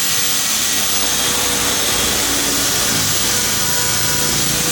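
A power tool running steadily at full speed, a loud even hiss with a faint steady whine.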